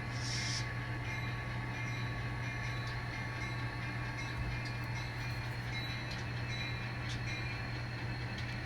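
N scale model train running slowly and steadily as the locomotive shoves a string of cars, a steady low drone with an even hiss above it. A short hiss comes right at the start.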